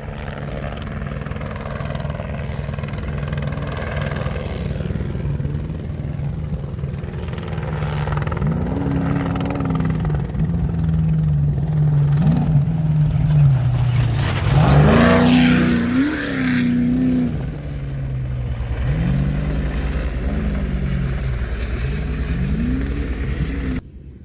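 A desert-racing trophy truck's engine running at speed, building as it approaches. It is loudest as it passes about midway, with a rush of noise. Then the revs rise and fall in repeated surges, a shift or throttle lift each time, as it pulls away.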